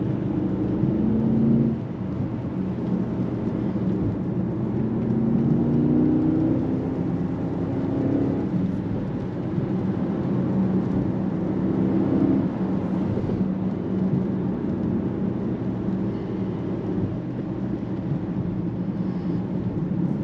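Mercedes-AMG GLE 63 S twin-turbo V8 heard from inside the cabin, accelerating hard. The engine note climbs in pitch and drops back at each upshift, about two, eight and twelve seconds in, then settles to a steadier pull.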